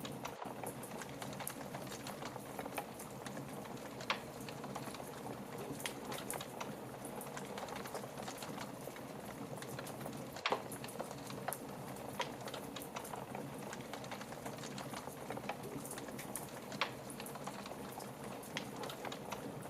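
Fire crackling in a fireplace: a steady soft hiss full of small crackles, with three louder pops spread through.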